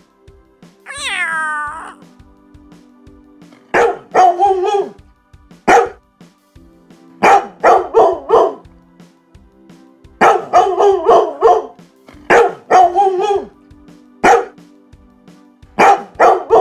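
A single falling animal call about a second in, then a dog barking in groups of two to five short barks, over steady background music.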